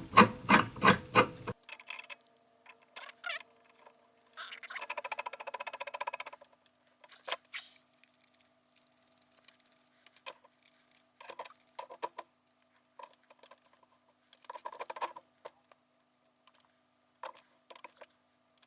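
Ratchet wrench clicking at about three clicks a second as it turns the screw of a ball joint press, pressing a new throwout bearing onto its carrier; after about a second and a half this gives way to scattered faint metal clicks, knocks and brief scraping of tools.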